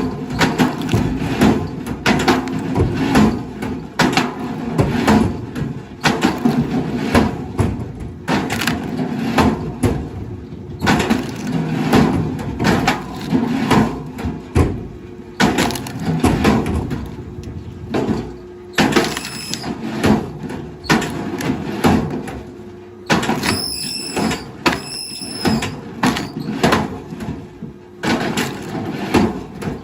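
Wood cracking and splintering again and again as a heavy machine breaks up timber, over a steady low engine hum. Near the end come two short high-pitched squeals.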